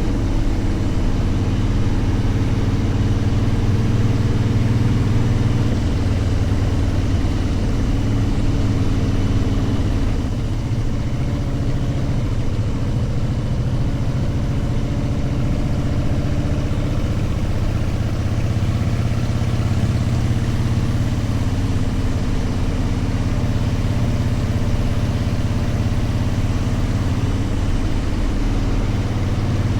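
Motorcycle engine running steadily while under way, its note dropping about ten seconds in and then climbing back over the next several seconds.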